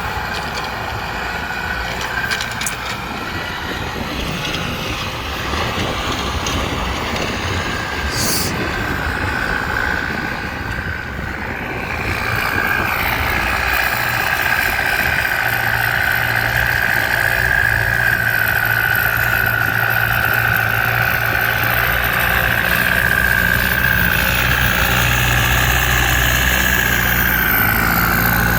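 Tractor engine running steadily, getting louder about twelve seconds in, with a steady high whine over it.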